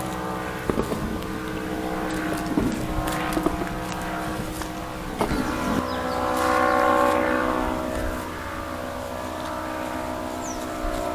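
Ultralight aircraft flying overhead, its propeller engine droning steadily. It grows louder around the middle and then eases off as it passes.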